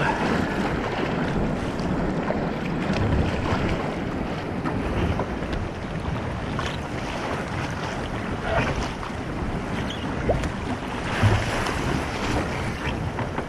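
Wind buffeting the microphone over waves washing against the kayak, with a few brief splashes or knocks scattered through.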